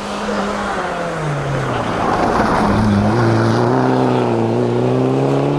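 Fiat Punto Abarth race car's engine under load on a hillclimb: the note drops about a second in, as at a gear change or a lift, then climbs steadily as it accelerates, growing louder.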